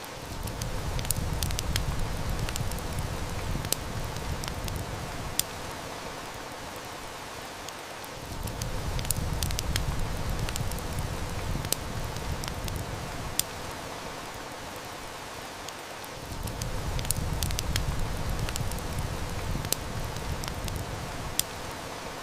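Steady hiss of heavy rain with scattered sharp crackles and snaps from a wood fire. A deep low rumble swells and fades in three long waves, about eight seconds apart.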